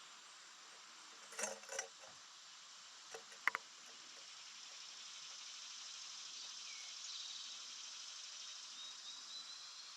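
Steady high insect drone with a few sharp taps or clicks, two pairs of them, the loudest about three and a half seconds in. Faint thin high calls come in the second half.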